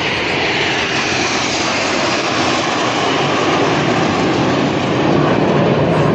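BAE Hawk T1 jet flying past: a steady jet-engine roar with a high whine that falls in pitch over the first two seconds, growing a little louder near the end.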